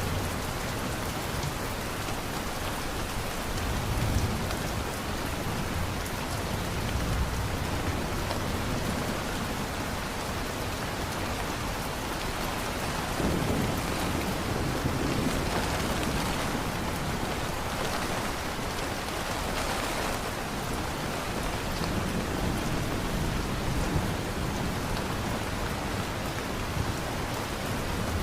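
Steady heavy rain falling, with low rumbles of thunder swelling up a few times.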